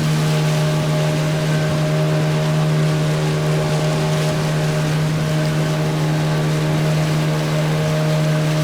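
Motorboat engine running at a steady, constant speed, a continuous even drone over a hiss of wind and water.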